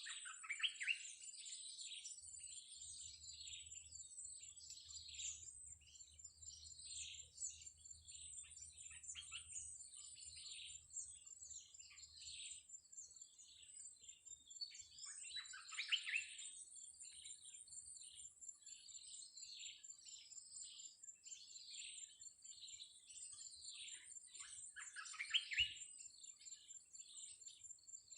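Blue-crowned hanging parrots (serindit) calling in a continuous run of short, high chirps. Louder downward-sweeping calls come about half a second in, around sixteen seconds and near twenty-five seconds. A thin, steady, very high buzz runs behind them.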